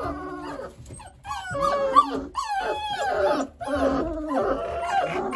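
Six-week-old Boerboel puppies whining and whimpering, a string of rising and falling high-pitched cries that overlap one another.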